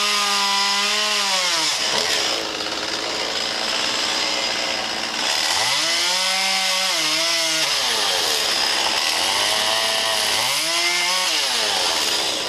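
Two-stroke chainsaw cutting wood: the engine runs at full throttle, its pitch sags as the chain bites and is loaded down, then climbs back when it frees. This happens about three times, near the start, in the middle and near the end.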